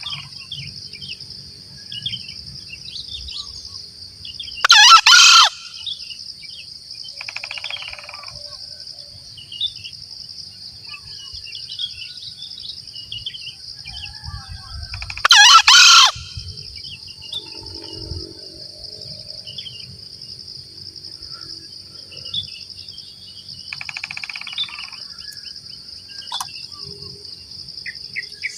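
Green junglefowl crowing: two short, loud, two-part crows about ten seconds apart. A steady high insect drone runs underneath, with fainter calls from other birds.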